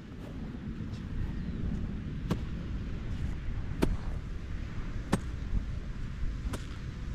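Golf cart riding along: a steady low rumble with a sharp click about every second and a half.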